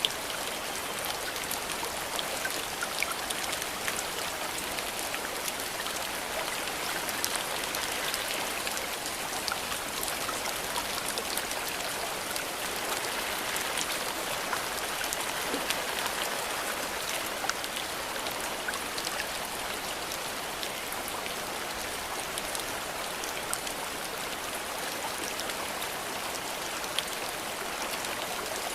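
Steady rain falling, an even hiss with many scattered drops ticking sharply on surfaces.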